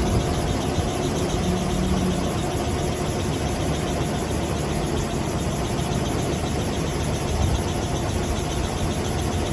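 Helicopter engine and rotor running with a steady, unchanging drone.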